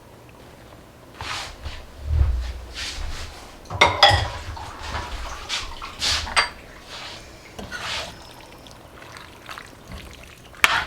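A can of undrained black beans emptied into a pot: wet beans and liquid sliding and plopping out, with metal clanks and scrapes of the can and spoon against the pot. The loudest is a ringing clank about four seconds in, and there is a sharp click near the end.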